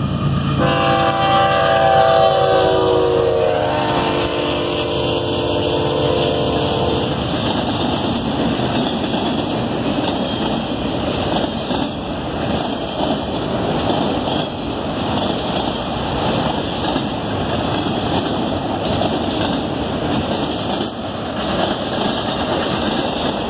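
Union Pacific freight locomotive's air horn sounding a chord, dropping in pitch as the locomotives pass and cutting off about seven seconds in. After that comes the steady rolling noise and wheel clatter of autorack freight cars going by.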